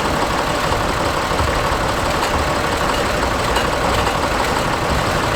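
Oliver tractor's engine idling steadily, with a low, even pulse.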